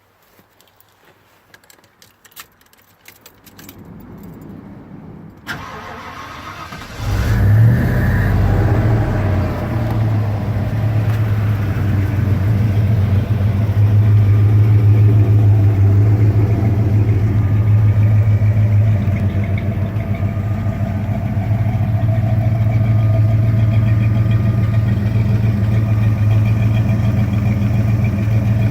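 1990 Ford Bronco's engine cranking and catching about seven seconds in, then running steadily at idle with a strong, low exhaust note.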